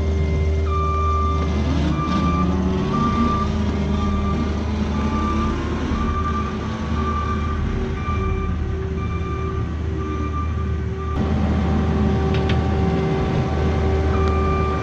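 Diesel engine of a piece of heavy equipment running with a backup alarm beeping over and over as the machine reverses; the engine pitch rises and falls as it works. The sound changes abruptly about eleven seconds in.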